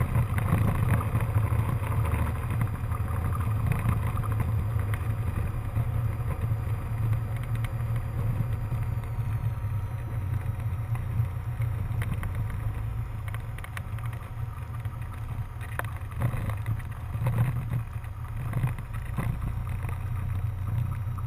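Cessna 152's four-cylinder Lycoming engine and propeller running steadily at low power, heard from the cockpit as a deep drone. A few brief knocks come about three-quarters of the way through.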